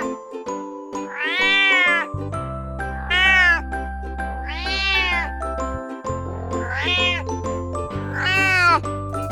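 Domestic cat meowing about five times, each meow rising then falling in pitch, over cheerful children's background music with chimes and a bass line.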